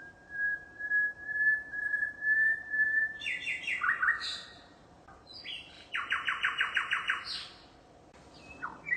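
A bird singing: one long whistled note held steady for about three seconds, then a few quick chirps, and near the end a fast run of repeated notes lasting about a second and a half.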